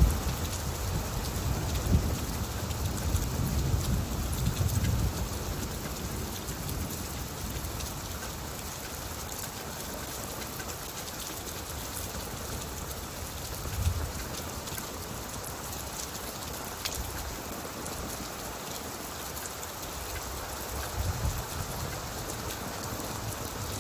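Steady rain falling, with low rumbles of thunder swelling in the first few seconds, once briefly a little past halfway, and again near the end.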